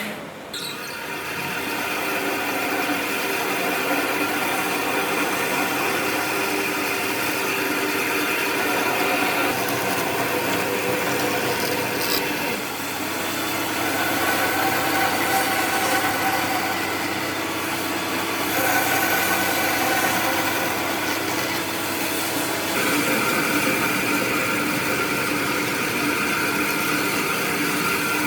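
A power tool running steadily against wood, a motor whine over a rough rasping noise, its tone shifting a few times as the load changes.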